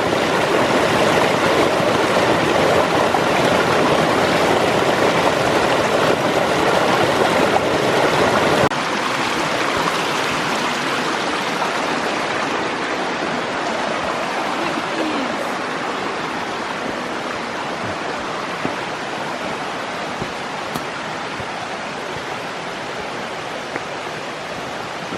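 A small rocky creek rushing and gurgling steadily. The sound drops abruptly about a third of the way through, then slowly grows fainter.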